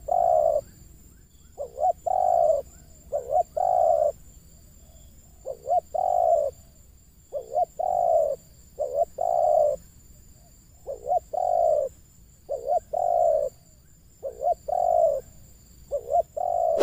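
Spotted dove cooing over and over. Each phrase is one to three short notes followed by a longer rolling coo, with a new phrase about every one and a half to two seconds.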